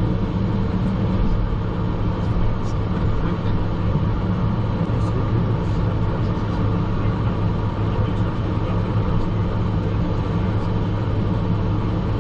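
Steady rumble inside a Learjet 45XR cockpit on the ground in gusty crosswind, the engines' low hum mixed with airframe and wheel noise.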